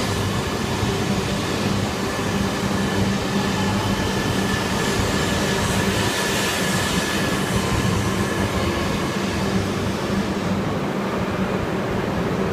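E3-series and E5-series Shinkansen trainset pulling out of the platform: steady motor hum and rolling noise from the passing cars. The high hiss falls away near the end as the train clears.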